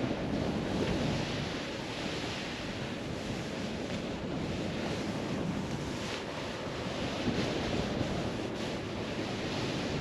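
Snowboard sliding and carving over powder snow, a steady hiss that swells and eases with the turns, with wind rushing over the microphone.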